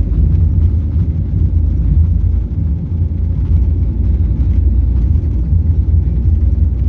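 Airliner at takeoff: jet engines and the takeoff roll making a loud, steady low rumble.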